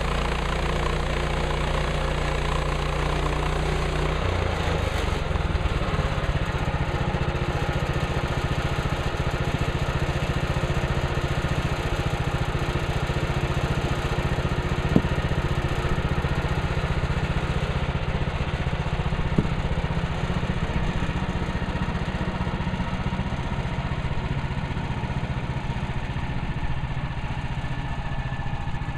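Portable band sawmill's small gasoline engine running steadily, its note changing about four seconds in. Two sharp clicks partway through.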